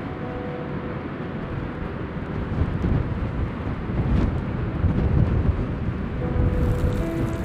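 Strong gusty wind buffeting the microphone: a low, rumbling rush that swells louder through the middle and eases off again near the end.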